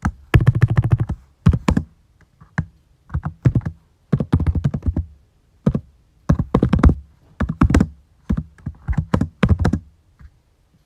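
Computer keyboard typing in quick bursts of keystrokes with short pauses between runs, stopping near the end.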